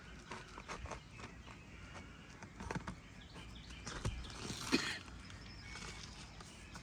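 Light scuffing, tapping and handling noise on an asphalt shingle roof, from a shingle and nails being worked by hand, with a few sharper knocks between about three and five seconds in.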